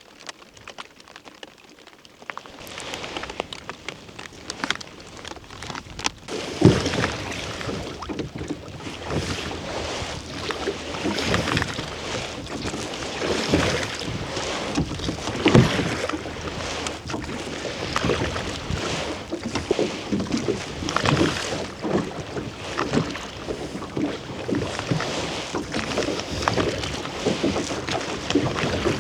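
Wind noise with water sounds and irregular knocks, starting about two and a half seconds in after a quiet opening.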